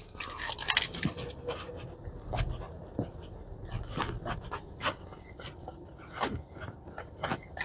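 A person eating burdock-root gimbap with mouth and hands: irregular small smacks, clicks and rustles of chewing and handling the roll.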